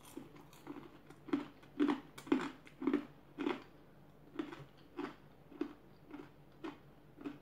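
Close-up chewing of crispy food, a crunch with each chew about twice a second, louder in the first half.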